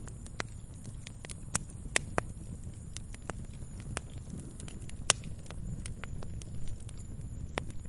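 Wood fire in a fireplace crackling: irregular sharp pops and snaps, about one or two a second, over a low steady rumble of the flames, with one louder pop about five seconds in.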